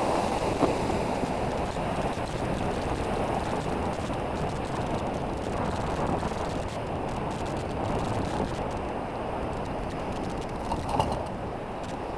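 Steady wind rushing over the microphone, with ocean surf washing against the coastal rocks.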